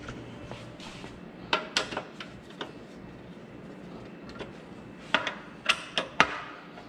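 Sharp metallic clinks and knocks of hand tools and hardware as a miter saw is fastened onto its stand, a few in a cluster in the first half and a few more in the second half.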